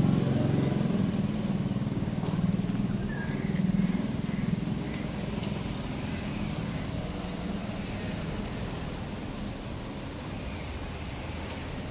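A motor vehicle's engine passing close by and fading away over the first few seconds, leaving steady street background noise.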